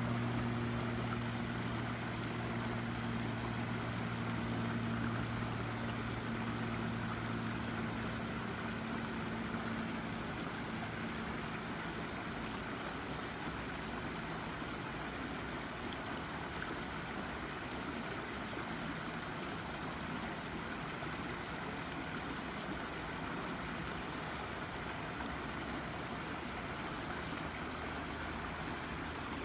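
Brook water babbling steadily over a rock. A low steady hum from a distant engine underlies it at first and fades out about a third of the way in.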